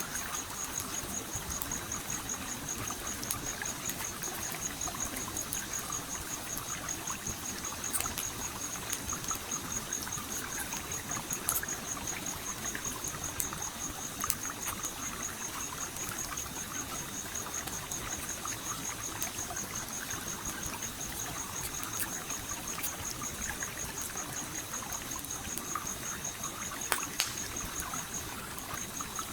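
Stream water trickling and flowing steadily, with a handful of sharp pops from a crackling wood fire. Over it runs a high, rapidly pulsing insect chirp that breaks off briefly near the end.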